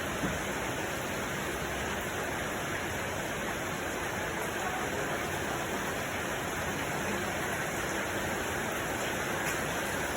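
Steady, even rushing noise with no breaks or changes, like running water or rain, with a single faint tick just after the start.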